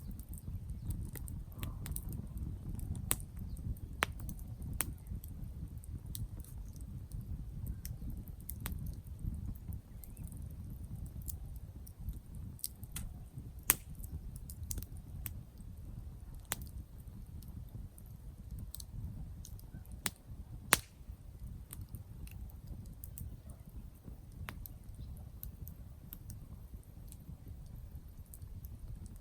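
Campfire crackling, with irregular sharp pops and snaps, a few much louder, over a steady low rumble.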